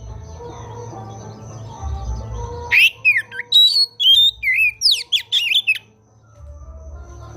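Oriental magpie-robin (kacer) song: about three seconds of loud, rapid, varied whistles and harsh squawky notes, starting a little under three seconds in, over a low hum.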